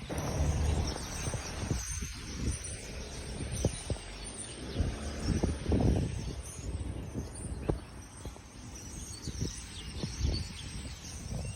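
A flock of birds chirping and calling, faint over a steady low outdoor rumble with a few scattered knocks.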